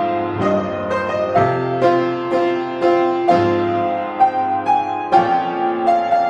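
Solo acoustic piano playing chords and melody notes, each struck note ringing on, with a fresh attack about every half second.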